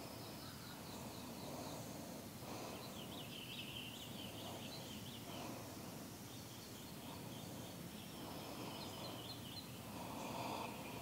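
Faint outdoor background with small birds chirping in quick runs of short high notes, over a steady low noise.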